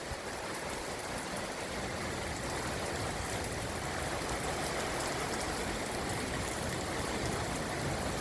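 Heavy rain pouring down steadily in a thunderstorm, an even rushing hiss of water that grows slightly louder over the first few seconds.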